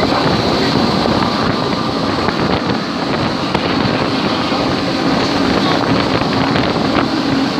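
Wind machine's blower running, a steady loud rush of air buffeting the microphone.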